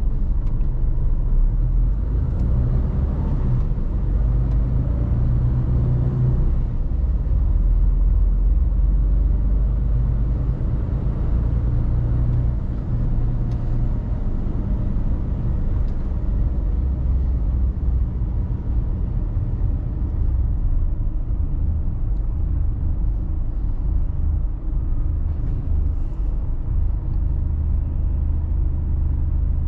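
Mercedes-Benz Actros truck's diesel engine and tyre noise heard from inside the cab while driving, a steady low rumble.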